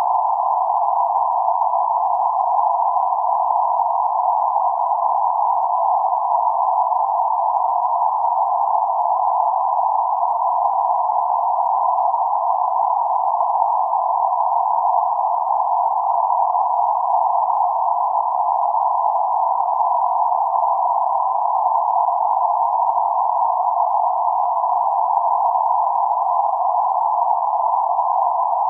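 Steady synthetic band-limited noise centred around 848 Hz, a hiss confined to the middle range with no low rumble or high sizzle, unchanging throughout.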